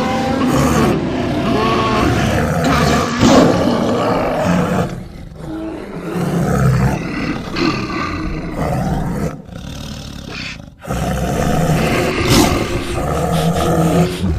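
A cartoon grizzly bear's roars and growls, film sound effects built from bear, lion and tiger recordings, coming one after another. There is a short lull about five seconds in and another around ten seconds in.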